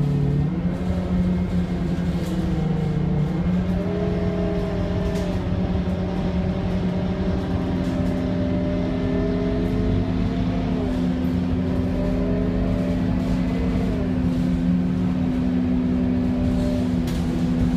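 Scania K230UB city bus with its 9.3-litre Scania DC9 diesel running, its pitch rising and falling several times as the revs change, over a steady low hum.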